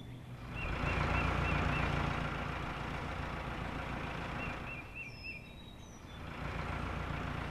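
Sound effect of a heavy vehicle's engine running as it drives past, swelling up about half a second in, easing off around five seconds and swelling again near the end. Faint high chirps repeat above it.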